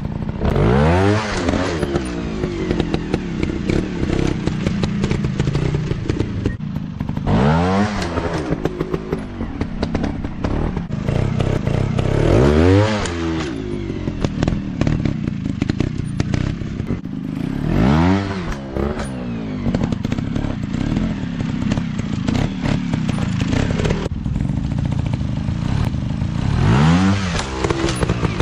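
Dirt bike engine running, revving up and dropping back five times, each rev rising and falling sharply in pitch.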